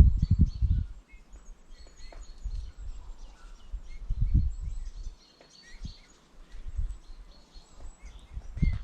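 Faint, scattered chirps of small birds at a winter bird feeder, with loud low thuds and rumbles at the start, about four seconds in, and again at the end.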